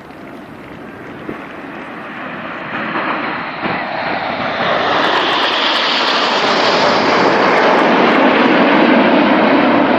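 A formation of Red Arrows BAE Hawk T1 jets flying past. The jet noise builds steadily from fairly faint to loud over several seconds and stays loud near the end.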